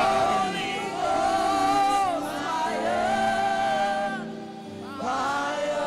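Gospel worship singing with musical accompaniment: voices hold long, drawn-out notes of a worship chorus. The sound dips briefly about four seconds in, then the singing picks up again.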